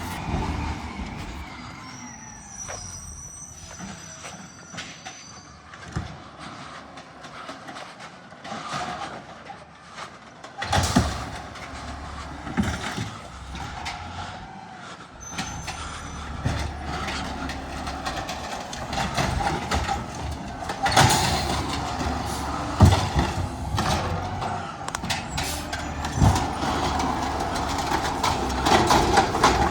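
Garbage truck at work: its engine rumbles louder from about ten seconds in, with repeated clanks and knocks and a few faint high whines early on.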